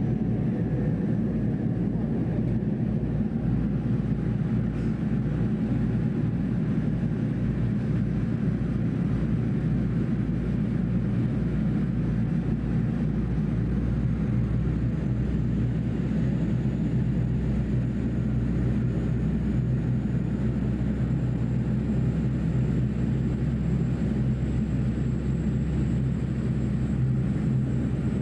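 Passenger ferry's engines running at steady cruise: a constant low drone. A faint, thin high whine slowly rises from about halfway through.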